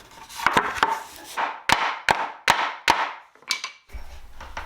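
About seven sharp knocks on wood over roughly three seconds, each with a short ring: a glued cedar floating-tenon corner joint being knocked together.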